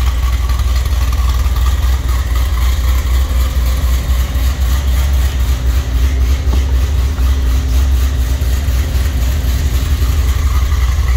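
Cadillac CTS wagon's engine idling steadily inside a metal building, a deep even rumble.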